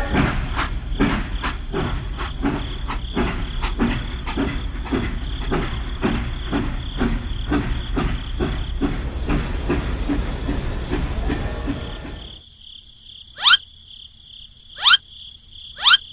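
A small motor-driven machine running with a low rumble and a rapid, regular clicking of about three to four clicks a second, which stops abruptly about twelve seconds in. Three short rising chirps follow near the end.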